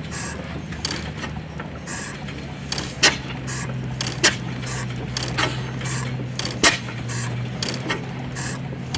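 1909 Deutz-Otto stationary gas engine running on battery ignition: a steady low hum with quick, regular mechanical ticking and a sharp crack at uneven intervals, three times.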